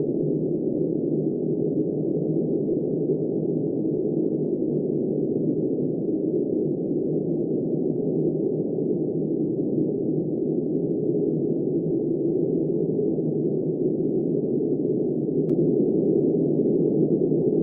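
Blizzard wind blowing steadily, a dull, muffled rush with no hiss or high end, swelling slightly near the end.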